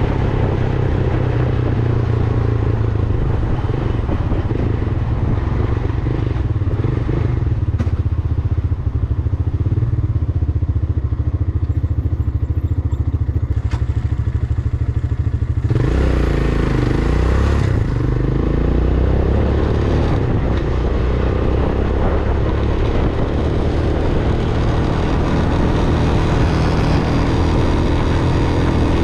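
Vento Alpina 300 motorcycle engine running steadily while riding. A little past halfway the engine note dips and rises again, then settles into a steady run.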